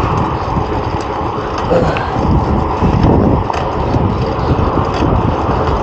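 Wind buffeting the camera microphone and tyres rolling on pavement as a fixed-gear bicycle is ridden: a steady, loud rushing rumble.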